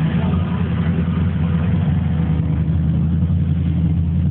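Classic car engine running steadily at low revs, a deep even drone with no revving.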